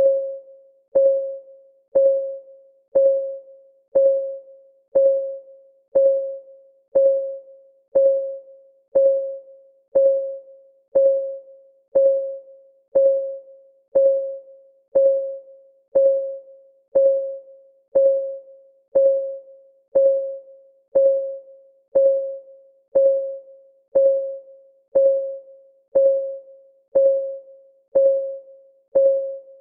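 Countdown timer's clock-ticking sound: one short pitched tick a second, each dying away quickly, in a perfectly even beat.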